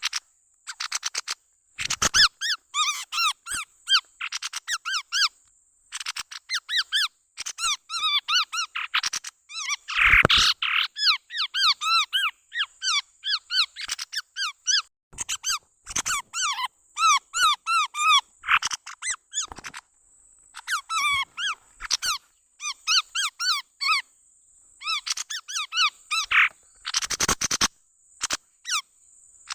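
Chestnut-rumped babbler calls played as a bird lure: bursts of rapid, short, arched chattering notes, each burst lasting a second or two, repeated with brief pauses.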